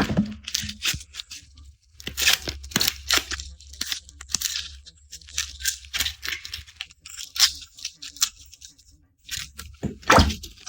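Dry, papery garlic skins being peeled off the cloves by hand: crisp crackling and tearing in short bursts with brief pauses, and a firmer crack near the end.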